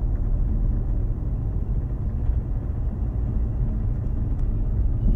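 Petrol car engine heard from inside the cabin while the car accelerates, a steady low rumble with a rattling 'kkareureung' under load. The mechanic takes the rattle for engine knocking, which he says can come from fuel of too low an octane rating or from weak engine output.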